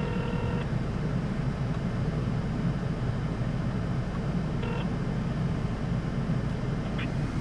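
Car engine idling, heard from inside the cabin as a steady low rumble. A held tone with overtones stops about half a second in.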